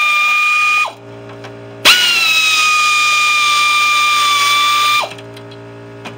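Hand-held power tool motor run in short bursts with a steady high whine. It winds down about a second in, spins up again near two seconds, runs about three seconds and winds down again. A faint low hum is heard between the runs.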